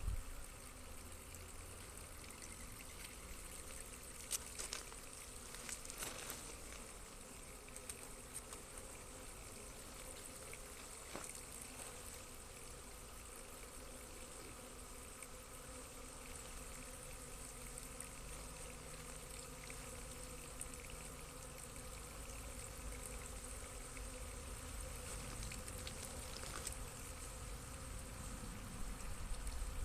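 Honeybees buzzing, faint and steady, with a few light knocks now and then.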